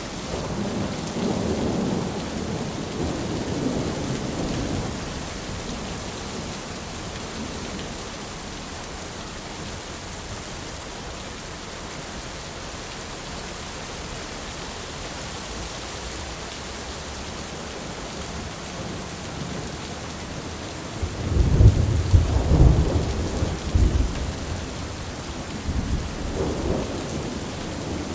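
Thunderstorm: steady heavy rain hissing throughout, with thunder rumbling low in the first few seconds, then a loud, deep thunderclap rolling about three-quarters of the way in and a smaller rumble after it.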